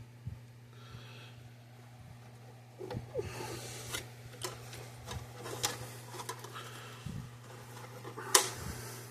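A screw being started and turned by hand into the fence charger's housing: scraping and rasping with small clicks of metal, and one sharper click near the end. A steady low electrical hum runs underneath.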